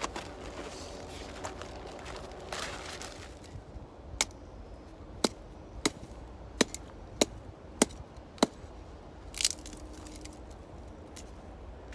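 Wood being chopped, about seven sharp strikes at an even pace, then a short crunch.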